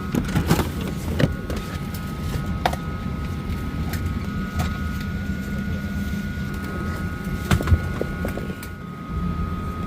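Boeing 737-800 cabin ambience while parked at the gate: a steady low hum of the air supply with a constant thin high tone over it, broken by scattered clicks and knocks, the loudest a pair of thumps about three-quarters of the way through.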